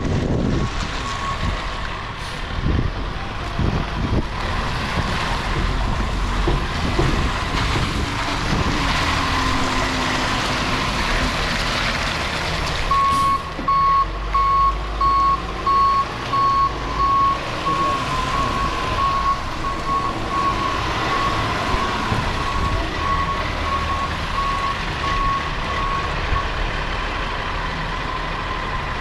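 Peterbilt 520 Heil recycling truck running with its engine and hydraulics working. About halfway through, its reversing alarm starts beeping about twice a second and keeps on for some thirteen seconds.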